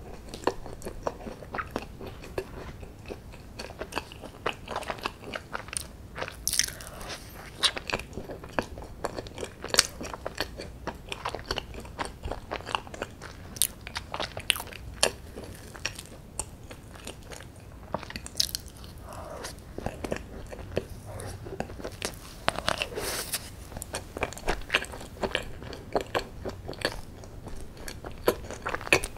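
A person chewing and biting soft chocolate brownie and spoonfuls of chocolate ice cream, with many small, wet mouth clicks and smacks.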